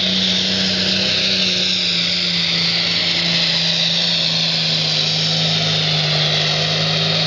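Pulling tractor's engine running hard at high revs, with a loud high whine over the engine note. Both the engine note and the whine sink slowly in pitch.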